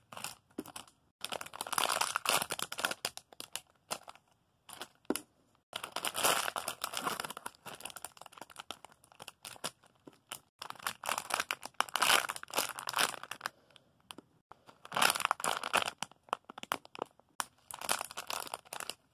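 Plastic crinkling and rustling in several bursts of a few seconds each, as squishy toys are picked up and handled.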